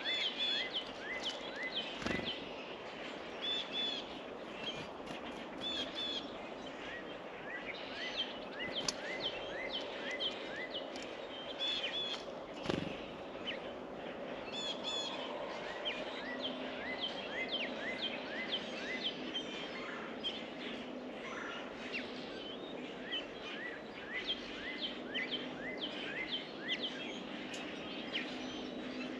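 Songbirds at a feeder chirping and calling, a steady stream of short, quickly falling notes. Two sharp knocks stand out, about two seconds in and again near the middle.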